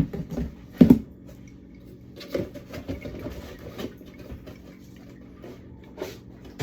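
Food containers being handled and set down on fridge shelves: a sharp knock about a second in, then scattered light clicks and rustling.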